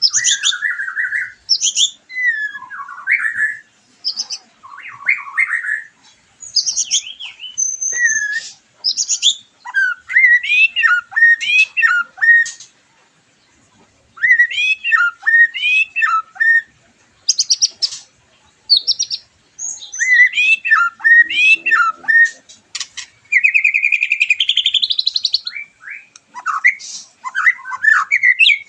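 White-rumped shama (murai batu) singing loudly: varied phrases of rich, gliding whistles and quick chattering trills, in bursts with short pauses between them and a longer pause about halfway through.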